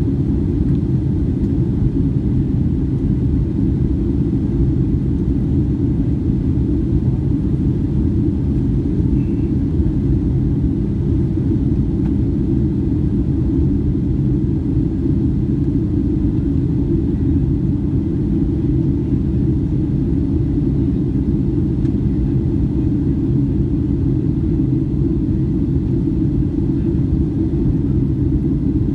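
Steady low rumble of a Boeing 757-200 airliner heard from inside the passenger cabin, holding even with no change in pitch or level.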